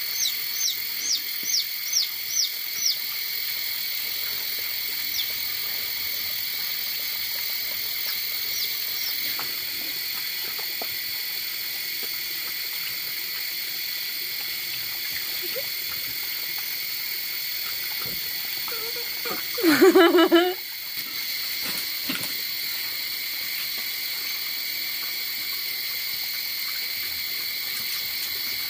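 A steady chorus of night insects, holding several fixed high pitches. In the first three seconds a run of about eight short, quick, falling chirps sounds over it, and about twenty seconds in a loud, pitched sound lasts about a second.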